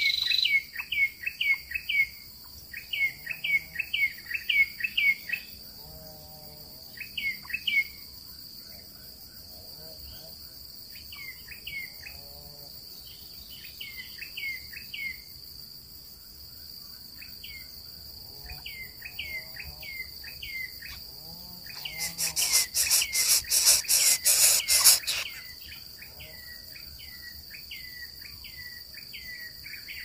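Runs of short, quick chirping bird calls, several a second, over a steady high insect drone. About two-thirds of the way through, a loud harsh rattling buzz lasts about three seconds.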